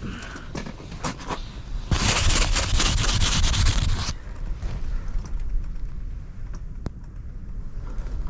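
Rustling and scraping handling noise, loudest and densest for about two seconds near the start before it stops abruptly, over a steady low rumble of wind against the tent.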